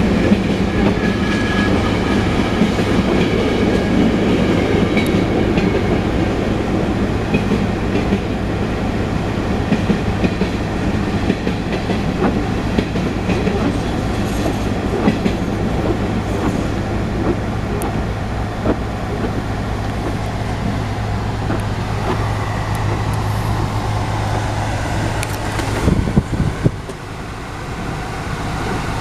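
Freight cars of a Union Pacific mixed freight train rolling past, with wheels clicking over the rail joints and a steady low hum. The rolling noise drops off near the end.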